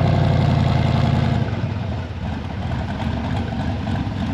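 Car engine idling with an even, low rumble that drops off suddenly about a second and a half in, leaving a quieter engine sound.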